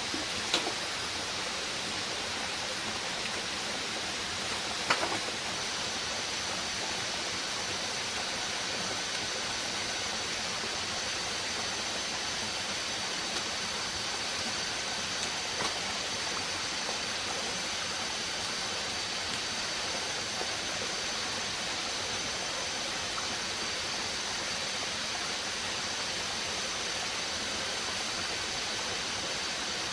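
Steady rushing forest ambience with a few short sharp knocks, the loudest about five seconds in. Two faint high steady tones join just after that and hold.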